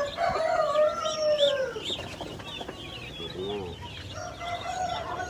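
A rooster crowing: one long call that falls in pitch at its end, and a second crow starting near the end, with a short cluck in between. Small birds chirp rapidly and high throughout.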